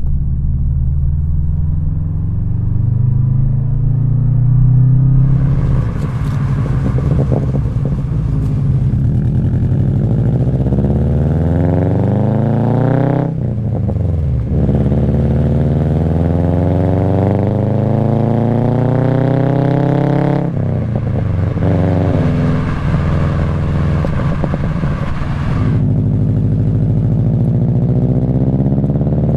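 2004 Subaru WRX's turbocharged flat-four engine through an Invidia N1 racing catback exhaust, accelerating through the gears while driving. Engine pitch rises, drops sharply at a gear change about 13 s in and again about 20 s in, climbs once more, then holds steady near the end.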